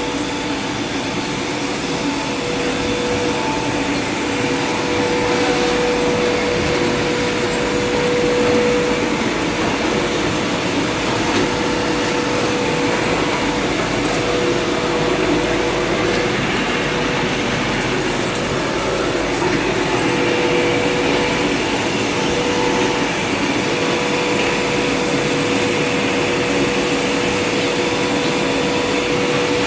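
Steady machine noise, a constant rushing with a hum through it, typical of industrial machinery running. The hum weakens for about ten seconds in the middle, then comes back.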